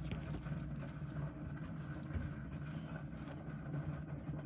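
Steady low background hum, with a few faint light clicks of small watch parts being handled.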